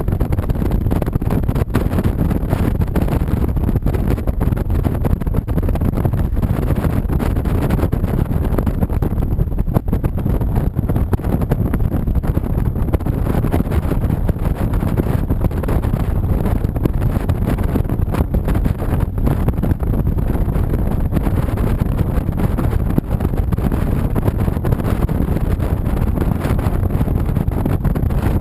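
Steady wind rush and road noise on a moving 2007 Honda VTX 1300C motorcycle, with wind pressing on the waterproof action camera's microphone. The noise is heavy and low and stays even, with no single event standing out.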